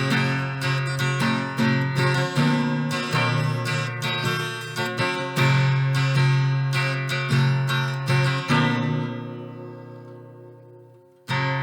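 Acoustic guitar strummed in a steady rhythm, then one chord left ringing and fading for about three seconds before strumming starts again near the end.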